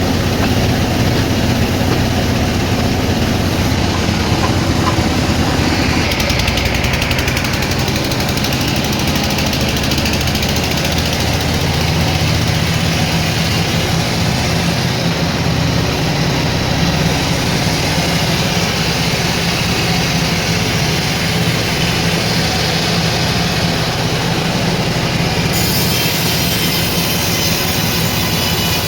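Sawmill machinery running steadily, a loud low engine-like hum that shifts in pitch a few times.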